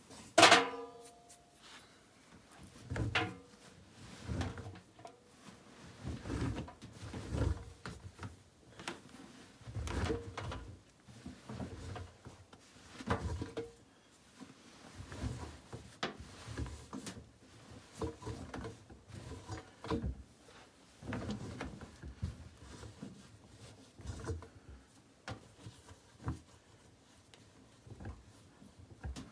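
AEG Electrolux Lavamat L74810 front-loading washing machine early in its cycle, laundry tumbling in the turning drum with soft thuds and knocks every second or two. A sharp clunk with a brief ring comes just after the start.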